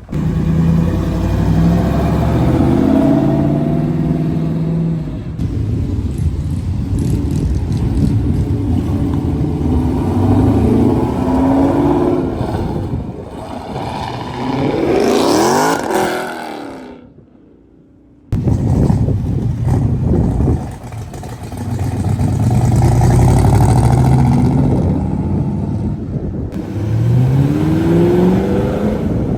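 Car engine revving hard and accelerating through the gears, the revs climbing and dropping again several times, with a sharp rising rev about halfway through and another near the end. It breaks off briefly in the middle.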